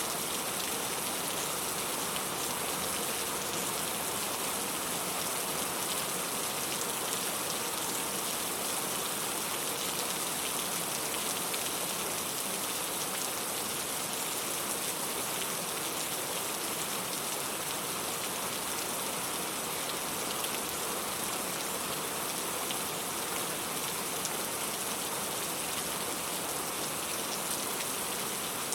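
Steady rain falling on a surface, an even hiss with many fine drop patters and no change in intensity.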